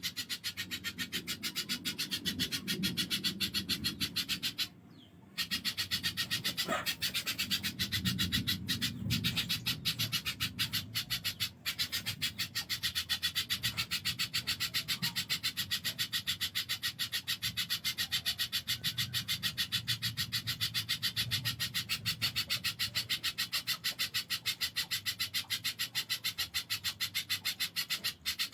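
A spiderhunter (pijantung) calling in a fast, steady run of harsh, scratchy repeated notes, with one short pause about five seconds in.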